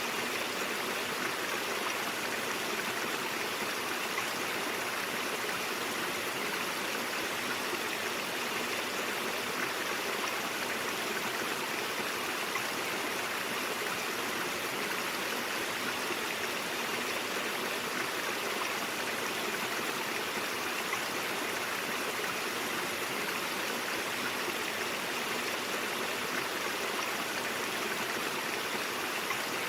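A stream running steadily: an even rushing of water with no breaks or changes.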